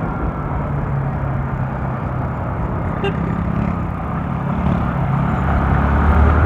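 Bajaj Rouser NS160's single-cylinder engine running under way, heard through the rider's helmet microphone with a steady rush of wind noise over it; the engine tone shifts and grows stronger near the end. A brief click about three seconds in.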